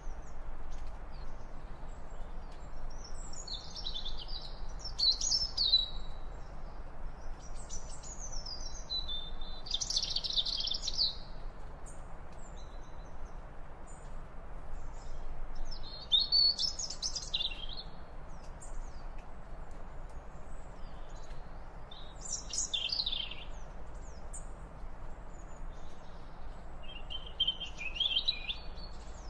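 Bird calls: five short, high, warbling phrases at intervals of several seconds, over a faint steady outdoor background hiss.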